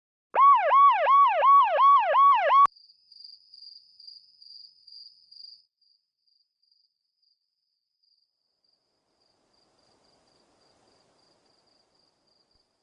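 Emergency-vehicle siren wailing up and down about twice a second, cutting off suddenly under three seconds in. Then faint high-pitched chirping fades away.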